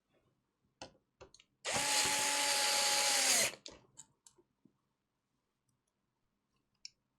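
A small electric screwdriver runs for just under two seconds with a steady whine that dips as it stops. Light clicks and taps sound before and after it.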